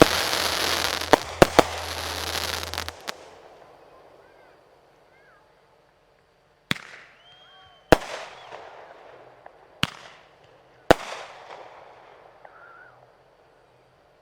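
Fireworks: a dense barrage of bangs and crackling for the first three seconds, dying away, then four single loud shell bursts spaced one to two seconds apart, each trailing off in echo.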